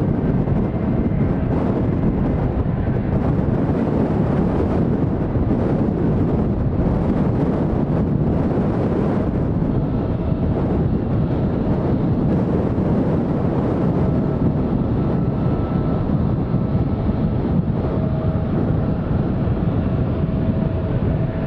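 Steady wind buffeting on the microphone over the rumble of distant jet airliner engines, with a faint steady engine whine coming in around the second half.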